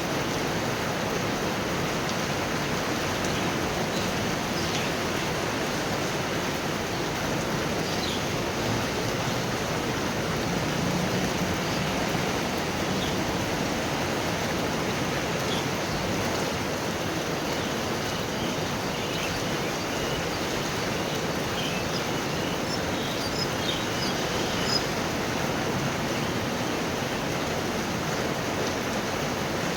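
Heavy thunderstorm rain pouring steadily: a constant, even hiss with no thunder in it.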